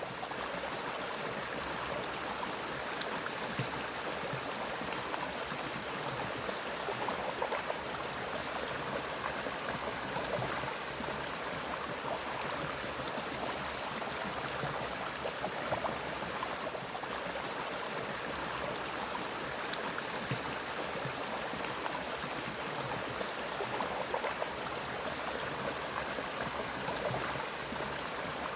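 Mountain stream flowing steadily over rocks, an even rushing and gurgling of water, with a thin steady high-pitched tone above it.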